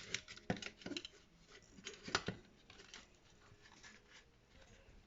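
Light clicks and taps of small tools and items being handled and set down on a work table, most of them in the first two and a half seconds.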